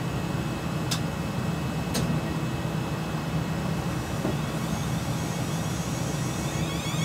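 South Western Railway Class 450 electric multiple unit standing at the platform, its onboard equipment humming steadily, with two sharp clicks about one and two seconds in. Near the end its traction equipment starts a rising, stepped whine as the train begins to pull away.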